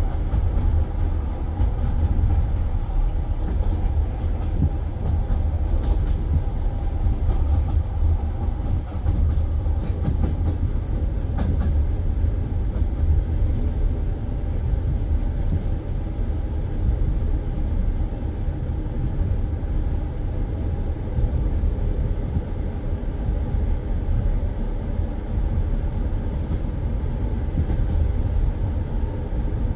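Passenger railway carriage running on the rails, heard from inside: a steady low rumble with a few faint clicks.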